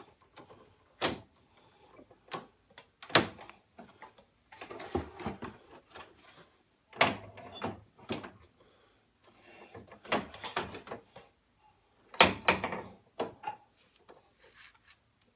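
Hand tools working on metal as a screw is fitted and tightened with a star (Torx) bit into the steering damper of a Toro zero-turn mower: irregular sharp clicks and knocks with short bursts of scraping between them.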